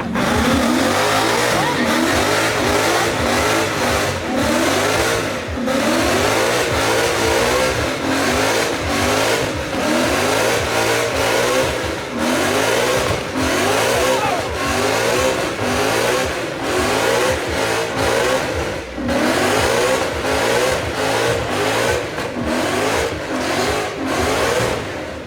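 Ford Mustang engine revved hard again and again, its pitch climbing and dropping every second or two, as in a burnout. The sound cuts off abruptly at the end.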